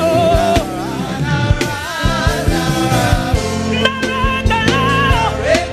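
Live gospel band playing an upbeat groove with regular drum strikes, with sung voices carrying a wavering melody over it.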